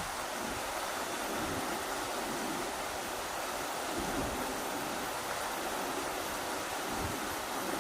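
Rushing river water, a steady, even rush, with gusts of wind rumbling irregularly on the microphone.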